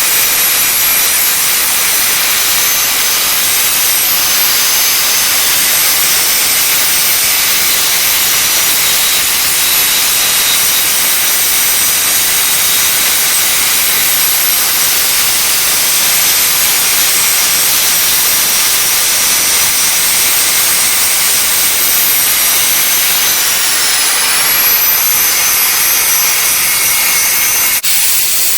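Stick-welding arc on a 7018 electrode, a steady loud frying hiss with a thin high whine above it, broken by a sharp click shortly before the end.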